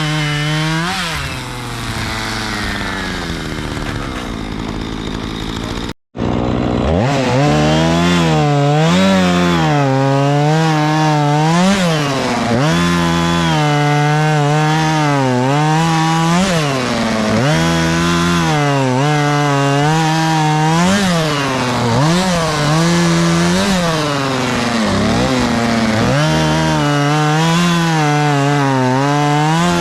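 Chainsaw running and cutting wood, its engine pitch dropping as it loads into the cut and rising again, over and over every second or two. The sound breaks off for a moment about six seconds in.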